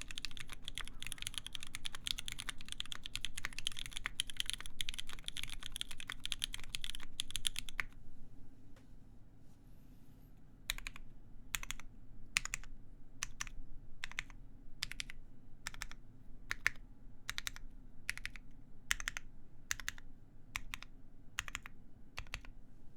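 Typing on a SINGA x TGR Unikorn mechanical keyboard with lubed vintage Cherry MX Black linear switches, a full brass plate and GMK keycaps: fast continuous typing for about eight seconds, a pause of two or three seconds, then slow single key presses a little more than one a second.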